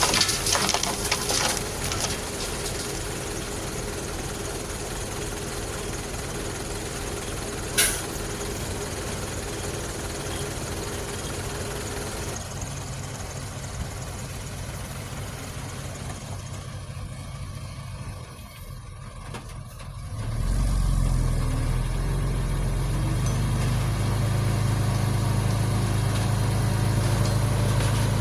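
Heavy diesel engine of a bulldozer or dump truck idling steadily, with a single sharp click about eight seconds in. After a brief drop about two-thirds of the way through, a louder, deeper engine sound sets in and runs steadily.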